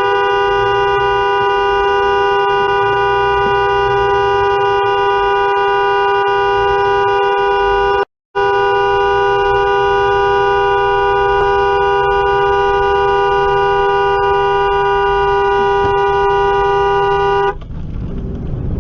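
Two-tone car horn held down in one long, unbroken blast, cut by a split-second gap about eight seconds in. It stops shortly before the end, leaving engine and traffic noise. The driver is leaning on the horn at a car that is holding up traffic.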